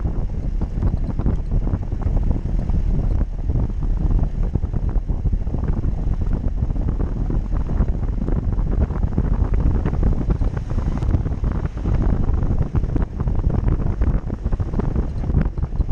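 Off-road vehicle driving, with a steady low engine rumble under heavy wind buffeting on the microphone and a dense run of irregular knocks and rattles.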